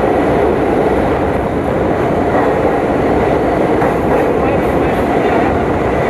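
Passenger train running at speed, a steady loud rumble of wheels on rail with faint clickety-clack from the track, heard from aboard the train.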